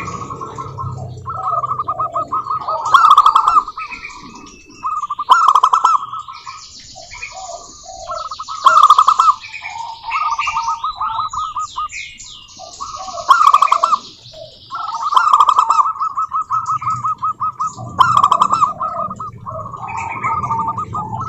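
Zebra doves (perkutut) cooing, each phrase a rapid trill of short notes. Phrases repeat every few seconds, and higher-pitched chirps and sweeps come between them.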